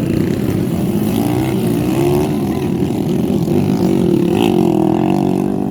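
Honda XRM motorcycle engines running hard and revving in a motocross heat, the pitch rising and falling as the riders work the throttle.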